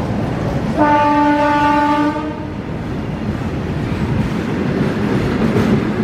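A train running past with a steady rumble. About a second in, the locomotive's horn gives one steady blast lasting about a second and a half.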